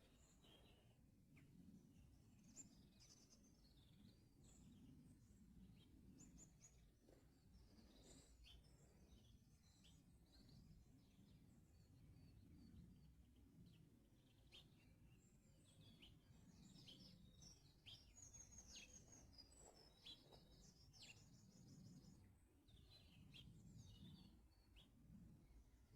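Faint songbirds singing in a garden: several birds chirping and trilling, with quick runs of rapidly repeated notes, over a steady low background rumble.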